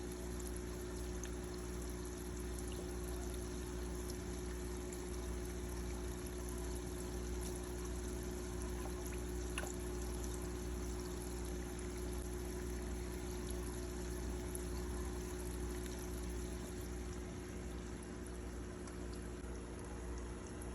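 Steady pouring and trickling of water into an aquarium, as from a filter outflow, over a low steady hum.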